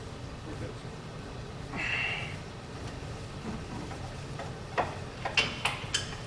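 Hand tools on the truck's wheel hub: a few sharp metallic clinks and knocks in the last second and a half as a wrench and socket work a stuck hub bolt, over a steady low hum, with a short high tone about two seconds in.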